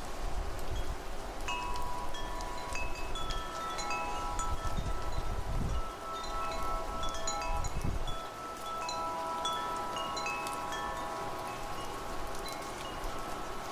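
Metal wind chimes ringing again and again, their tones overlapping and hanging on, over a steady hiss of rain. Low gusts of wind rumble across the microphone for the first half and die away about eight seconds in.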